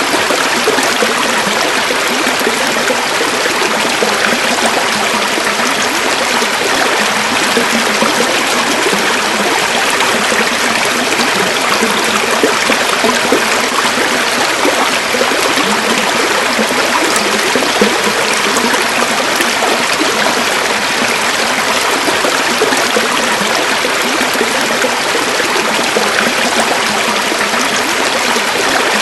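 River water running over stones, a steady rush with fine gurgling that holds even.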